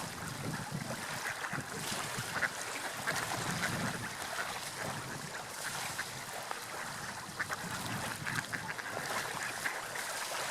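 Water lapping and splashing: a steady wash of noise broken by frequent short, sharp splashes.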